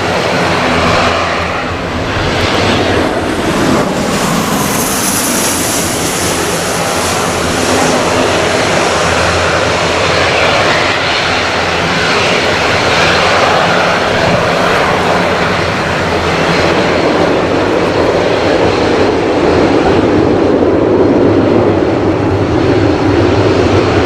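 Gulfstream G550 business jet's twin Rolls-Royce BR710 turbofans running close by, a steady loud engine noise with a thin high whine a few seconds in, growing louder over the last few seconds.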